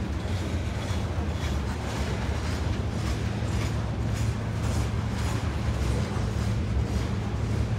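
Freight train of covered hopper cars rolling slowly past: a steady low rumble of steel wheels on rail, with faint clicks every second or so.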